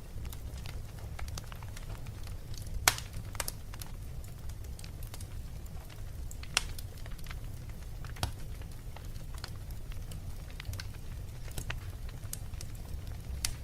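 Fireplace fire crackling, with irregular sharp pops of varying strength over a steady low rumble, the loudest pop about three seconds in.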